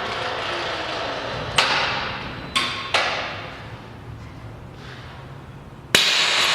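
Compressed-air vacuum system of a pneumatic vacuum lifter hissing, with three sharp valve clicks about one and a half to three seconds in, each followed by a rush of air that fades away. The hiss then settles quieter, and a sudden loud rush of air cuts in near the end, typical of the vacuum-saving system shutting off once vacuum is made and pulsing back on as the imperfect seal leaks.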